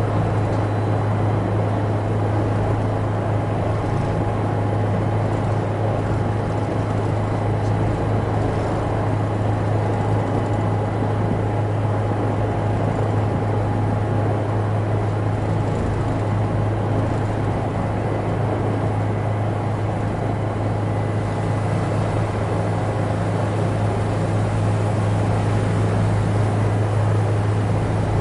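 Helicopter in flight, a steady drone of engine and rotor noise with a strong constant low hum and a faint steady whine above it.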